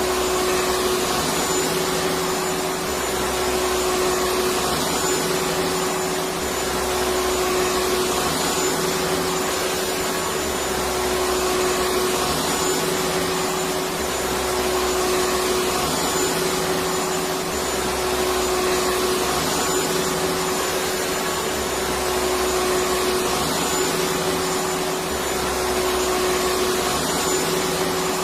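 Electric vacuum cleaner running steadily: a continuous whooshing hiss with a steady motor hum, and a low rumble that comes and goes every two to three seconds.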